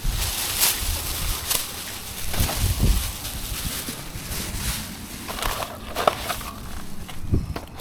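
Items being rummaged through and handled in a bin: scattered knocks, clicks and rustling, with a low rumble underneath.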